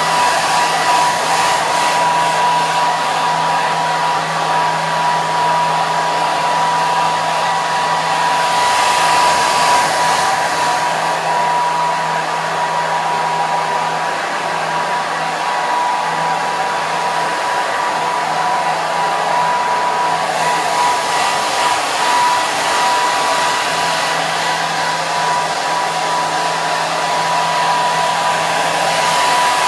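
Hair dryer running continuously, a steady rushing hiss of blown air with a constant high whine from its motor.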